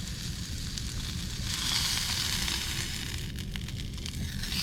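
Hamburger patty sizzling as it fries, the sizzle growing louder about a second and a half in. A few light clicks come near the end, and a steady low hum runs underneath.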